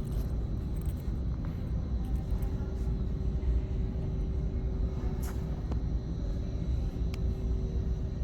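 Steady low rumble of a large indoor exhibition hall's background noise, with a faint steady hum running through it and a few small clicks.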